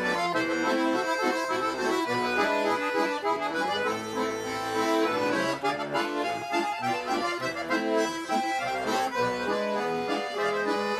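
Bayan (Russian button accordion) playing a chastushka tune alone between sung verses: a stepping melody over held chords.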